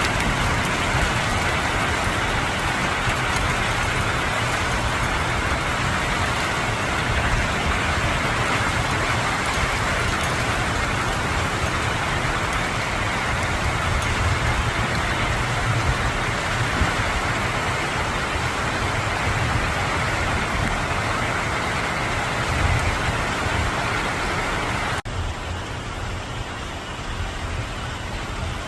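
Heavy summer rain shower pouring down in a steady hiss over a low rumble. About 25 s in it cuts to a quieter, duller rain sound.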